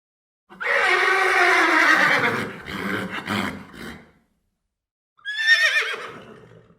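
Horse neighing twice: a long whinny that falls in pitch and trails off, then a shorter, wavering whinny about five seconds in.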